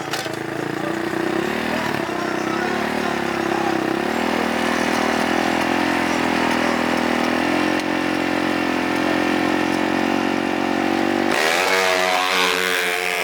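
Off-road racing engines of dirt bikes or ATVs running and revving. The pitch climbs slightly about four seconds in, then jumps suddenly to a louder, higher engine note near the end.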